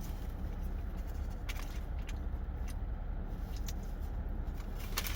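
Chewing food, with scattered faint mouth clicks over a steady low hum.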